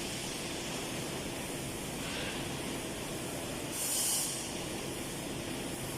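A 6090 ATC CNC router running steadily as it measures the tool length on the tool setter, with a short hiss about four seconds in.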